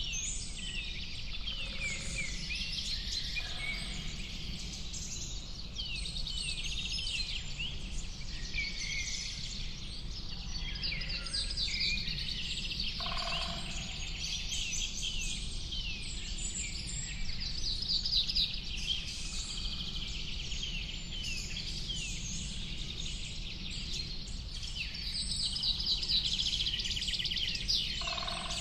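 A dense chorus of many songbirds chirping and trilling without a break, with a lower call standing out a few times. A steady low rumble runs underneath.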